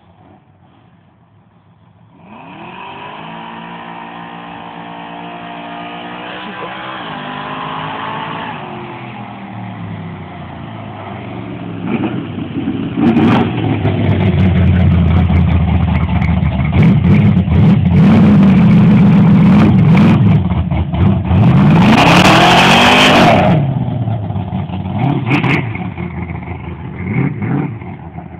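A car engine running and revving: it starts up loudly about two seconds in, its pitch rising and falling. It is at its loudest through the middle, with a short hissing rush near the end of that loud stretch.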